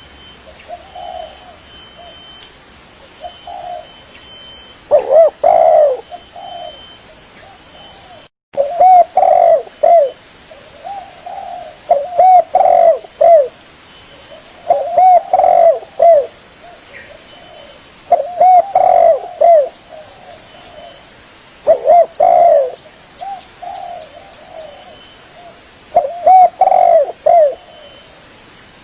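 Spotted dove cooing: a loud phrase of several rounded coos, repeated every three to four seconds, as played for a trapping lure. The sound drops out briefly about eight seconds in.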